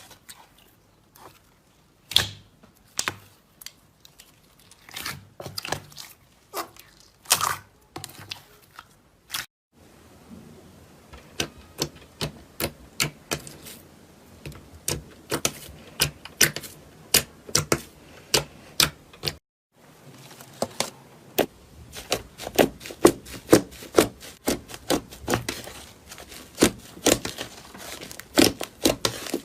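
Slime being squeezed and poked by hand, giving a quick series of sticky clicks and pops, broken twice by a brief silence. The clicks come louder and more densely in the last third.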